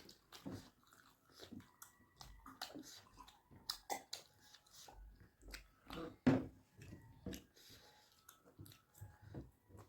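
A person chewing food close to the microphone, with many short, irregular wet mouth clicks and one louder bite or click a little past the middle.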